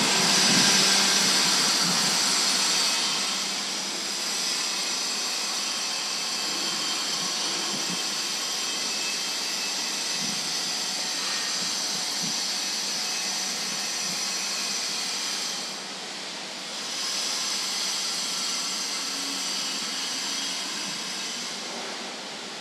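Recorded urban transport noise: a steady rushing hiss, loudest in the first few seconds, dipping briefly about two-thirds of the way through and again near the end.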